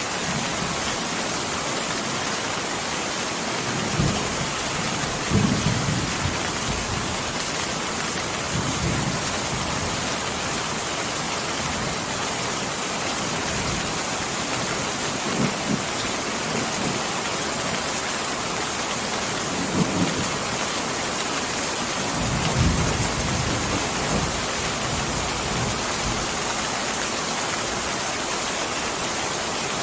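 Steady rain with short, low rumbles of thunder every few seconds, the strongest about five seconds in and again around twenty-three seconds.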